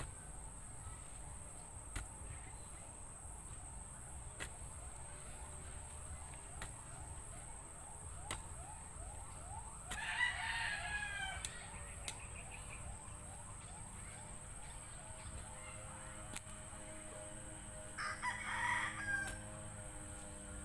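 A rooster crows twice, once about halfway through and again near the end. Sharp single knocks come every couple of seconds, under a steady high-pitched insect-like whine.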